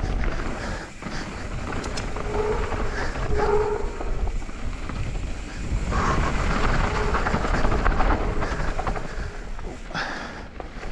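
Wind buffeting a helmet-mounted action-camera microphone and a mountain bike's tyres rolling over packed dirt during a trail descent, with a steady rumble and a couple of brief faint humming tones around the middle.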